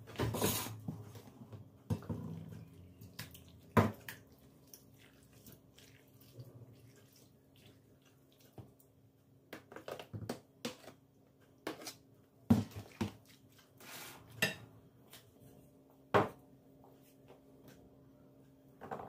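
Dishes and kitchen utensils being handled and set down: scattered clinks and knocks with a few sharper clacks, over a faint steady hum.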